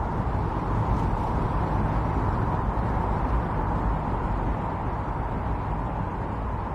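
Strong winter storm wind blowing steadily, a deep, even rushing noise with no single gust standing out.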